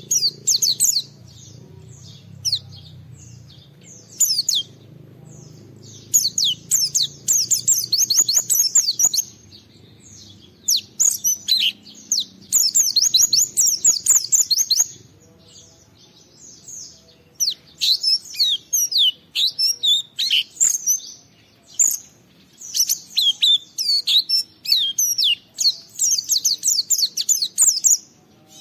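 White-eye (pleci) singing a long, rapid, high twittering song in bursts of a few seconds with short pauses between: the energetic challenging song that hobbyists play to provoke other white-eyes into singing.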